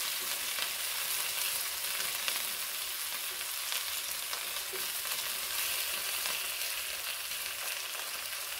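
Chicken thighs and finely chopped onions sizzling steadily in hot oil in a frying pan, with faint scrapes and taps of a silicone spatula and tongs as the pieces are stirred.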